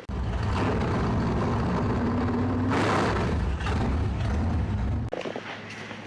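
A motor-driven machine running with a steady low drone, starting abruptly and cutting off suddenly about five seconds in, with a burst of hissing air about halfway through.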